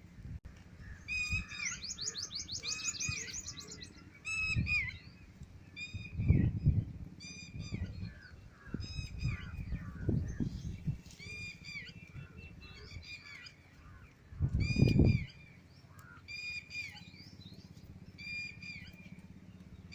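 Several birds chirping, one repeating a short call about once a second, with a fast trill early on. Four loud low rumbles cut in along the way, the loudest near the end.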